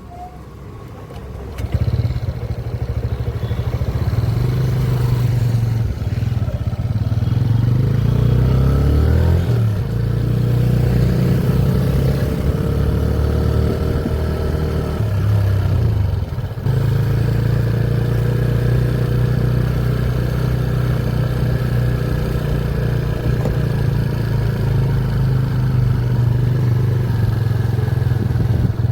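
Motorcycle engine running under way, its note rising and falling with the throttle, with a brief drop about two-thirds of the way through.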